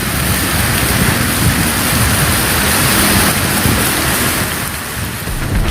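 Heavy rain pouring down, a loud steady hiss of downpour.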